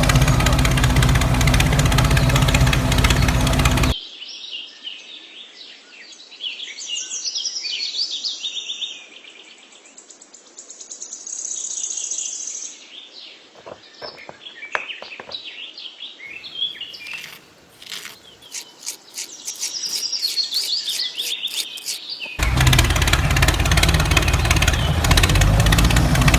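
Birds chirping and calling in quick varied phrases for most of the stretch, set between loud, steady, engine-like droning that cuts off about four seconds in and cuts back in abruptly near the end.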